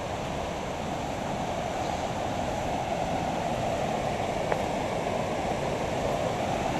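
Steady rush of a waterfall and its stream, growing slightly louder toward the end.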